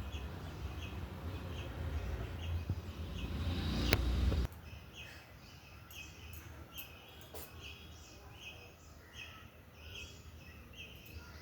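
A bird repeating a short chirp about twice a second, with other birds chirping. A low rumbling noise under the first half builds and then cuts off suddenly about four and a half seconds in.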